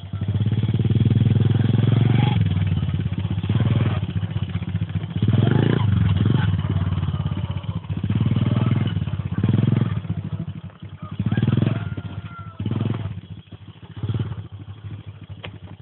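Mini motocross bike engine running, revved in repeated surges that rise and fall every second or two, loudest in the first few seconds.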